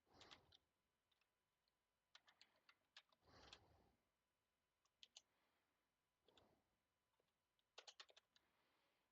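Faint computer keyboard typing: key clicks in short, irregular runs, with a few softer, longer sounds in between.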